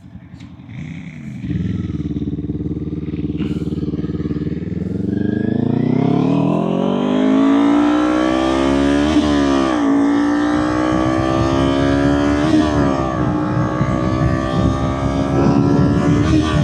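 Kawasaki Ninja 400's parallel-twin engine running low for a few seconds, then accelerating hard. The pitch climbs steadily and drops sharply at two upshifts in the second half.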